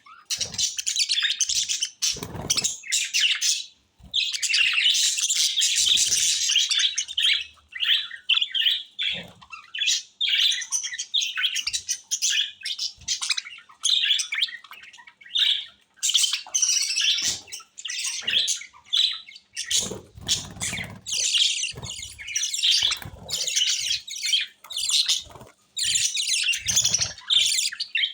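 Small pet parrots chirping and chattering almost without a break, many quick high chirps run together with brief pauses, and a few low knocks mixed in.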